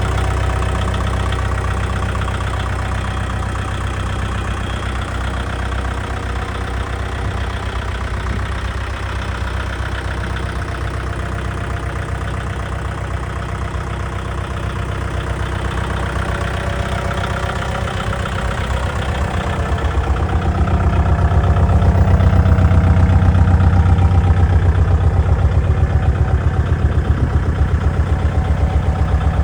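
Kubota MU4501 tractor's four-cylinder diesel engine running steadily, growing louder and heavier about two-thirds of the way through.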